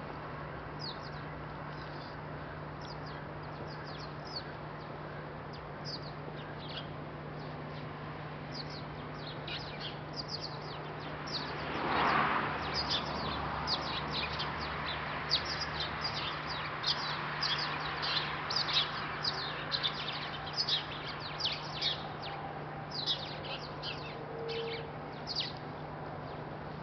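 Songbirds chirping: many short, high, falling notes, scattered at first and coming thick and fast from about a third of the way in, over a steady low hum. A brief rush of noise swells and fades near the middle.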